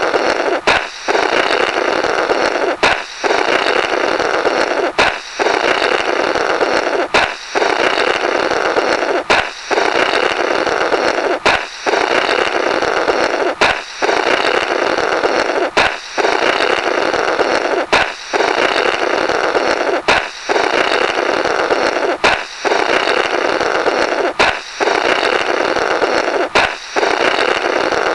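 A balloon pops with a sharp crack, and then someone blows a buzzing, rubbery "blorrrt" through the burst remnants for about two seconds. The comic pop-and-blow repeats in a loop roughly every two seconds.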